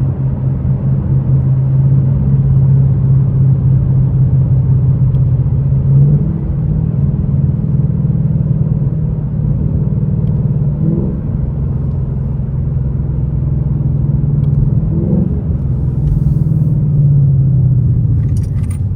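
Ford Mustang GT's 5.0 V8 engine droning at a steady cruise, with brief pitch changes about three times as the throttle shifts.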